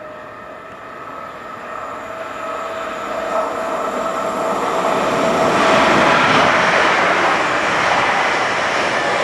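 A train approaching on the line, growing louder over the first six seconds and then staying loud. A steady whine sits over a broad rushing noise.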